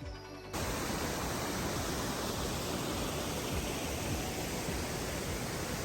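A waterfall crashing, a loud, steady rush of falling water that comes in suddenly about half a second in.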